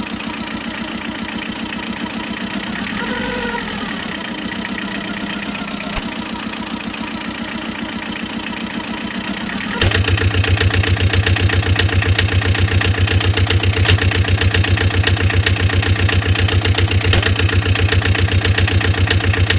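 Engine running steadily, with a short rising-and-falling tone about three seconds in. About halfway through it cuts abruptly to a louder engine idling with a fast, even knocking pulse.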